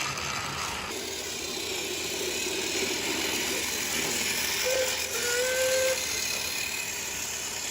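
Steam locomotive hissing steadily, with two short whistle toots about five seconds in.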